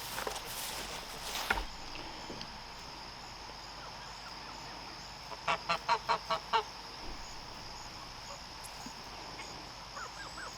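A goose honking in a quick run of about seven calls, some five seconds in, over a steady high insect hiss.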